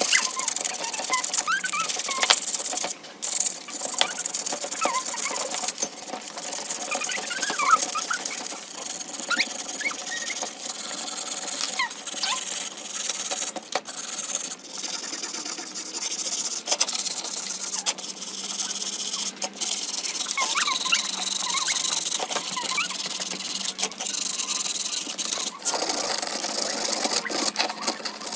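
Rubbing and scraping on a speaker's parts during restoration, with short squeaks and scattered clicks throughout.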